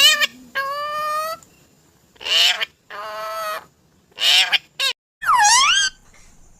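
Parrot vocalizing in a series of about seven separate drawn-out calls, several rising in pitch and one near the end dipping and then climbing again.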